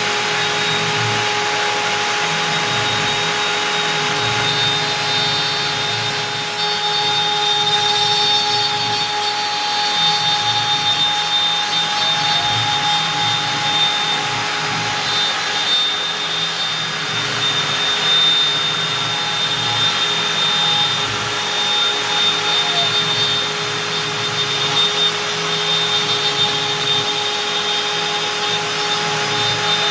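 Stepcraft M1000 CNC router spindle running at 25,000 rpm with a steady high whine, its 4 mm up-down compression end mill cutting out beech. The cutting noise rises and falls a little as the tool moves along the path.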